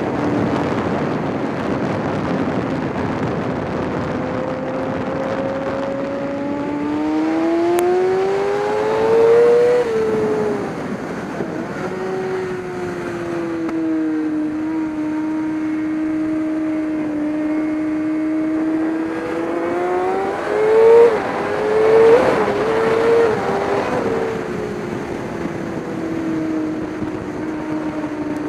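Race car engine running at speed. Its pitch climbs as it accelerates, falls off sharply about ten seconds in, holds steady, then climbs again with two brief loud peaks a little past two-thirds of the way through before settling.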